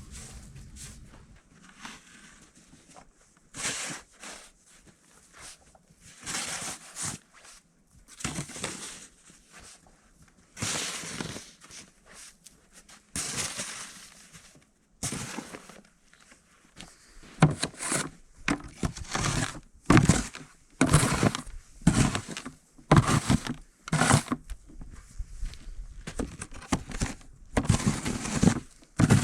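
A series of irregular crunching, rustling noises, some with a dull thud. They are sparse at first, then come louder and closer together, about one a second, in the second half.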